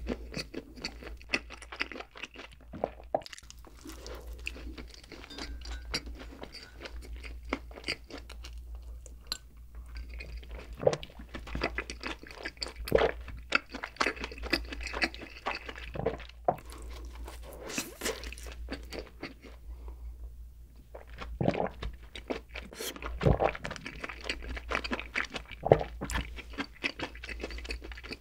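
Close-miked chewing of soft cream-filled bread, with wet mouth sounds and many small irregular crackles and smacks, over a steady low hum.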